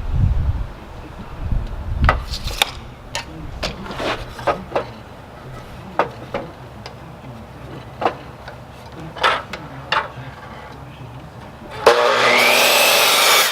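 Wooden spindles being handled on a workbench, with scattered knocks and clunks. Near the end, a power saw starts suddenly and runs loud and steady, cutting the wood.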